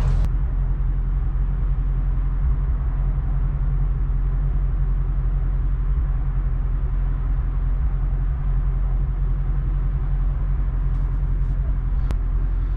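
Vehicle engine running steadily, a low even drone with no change in speed. A faint tick or two and a short click come near the end.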